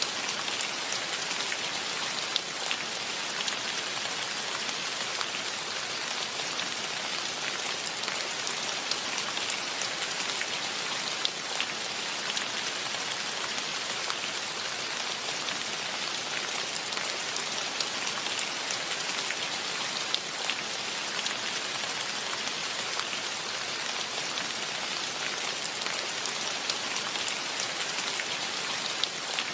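Steady rain: an even hiss of falling rain with many close individual drops ticking through it.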